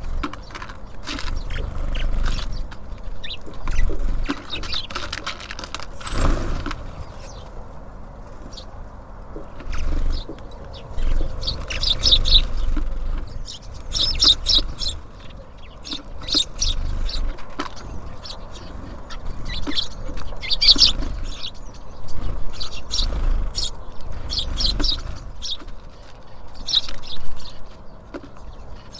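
Small songbirds at a feeder giving short high chirps in scattered clusters, with occasional taps. A low rumble rises and falls underneath.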